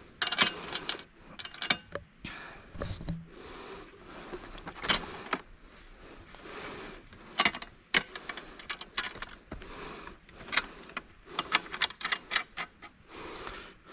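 Irregular clicks, knocks and light rattles of gear being handled, some in quick clusters: the electric chainsaw being stowed back in its saw-press mount on the e-bike's rear rack.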